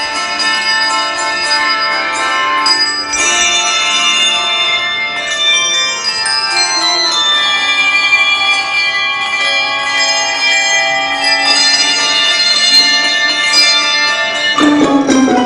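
Handbell choir playing a melody, many bell notes ringing on and overlapping, with a louder, lower chord struck near the end.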